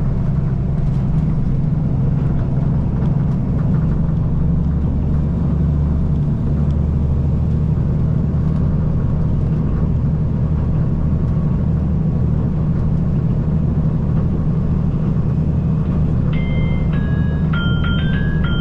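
Interior of a KiHa 185 series diesel limited express train running, a steady low rumble. About sixteen seconds in, a bright on-board chime melody of stepped bell-like notes begins.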